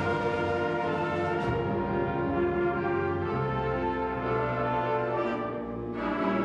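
School wind ensemble playing, with brass such as French horns and trombones carrying sustained chords; the sound thins and softens near the end, then swells again.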